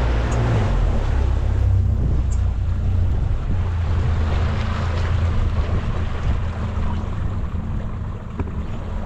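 Boat motor running steadily underway, a low drone with wind and water rushing past.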